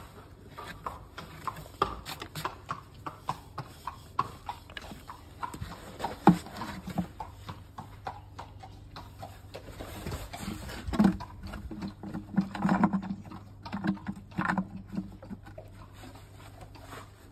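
Shire horse's hooves clopping and knocking on a hard floor: a run of sharp knocks about two a second, then fewer, louder knocks and thuds in the second half.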